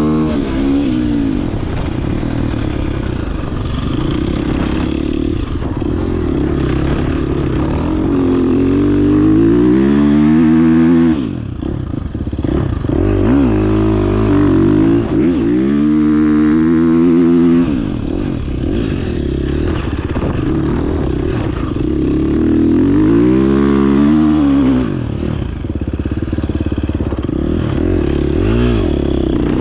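Dirt bike engine under way, its revs repeatedly climbing and falling as the throttle is worked. The engine eases off briefly about eleven seconds in and again about twenty-four seconds in.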